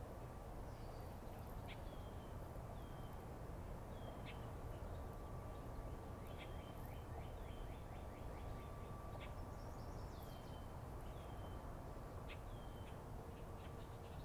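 Birds calling: many short chirps, each falling quickly in pitch, repeated at irregular intervals, over a steady low rumble and a faint steady high hum.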